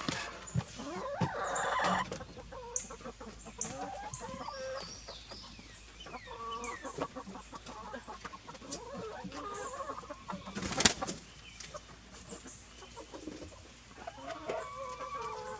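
Chickens clucking, with a brief sharp noise about two-thirds of the way through.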